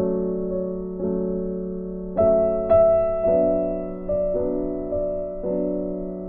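Soft background piano music: slow chords struck about once a second, each ringing and fading.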